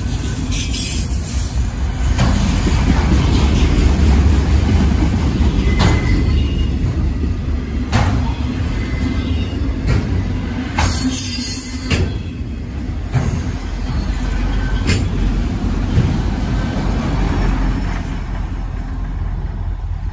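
A freight train of autorack cars rolling past at close range: a steady low rumble with irregular clanks from the wheels and cars, and a brief high screech of wheel squeal about a second in and again around halfway. The rumble starts to fade near the end as the last car passes.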